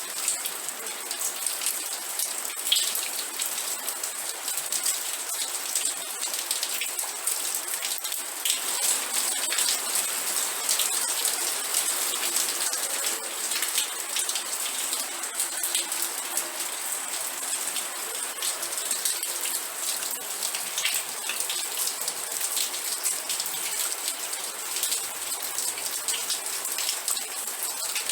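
Steady rain with many individual drops pattering and ticking close by on a surface.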